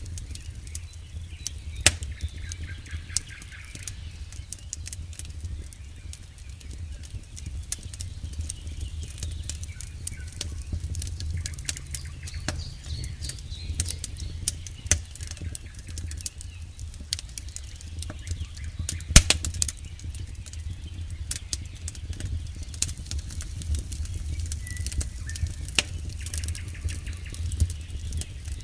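A campfire burning, with irregular sharp crackles and pops over a steady low rumble of the flames; the loudest pop comes about 19 seconds in.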